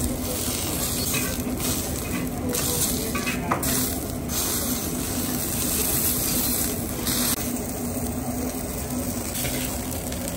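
Burger patties sizzling in oil on a flat steel griddle, with a metal spatula scraping and tapping the griddle several times as they are turned.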